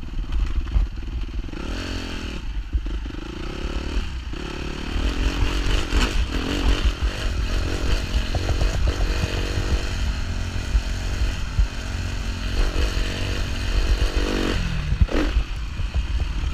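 Suzuki 250 four-stroke single-cylinder motocross bike engine running on the track, its revs climbing and dropping again and again as the throttle is worked through corners and jumps, over a heavy low rumble.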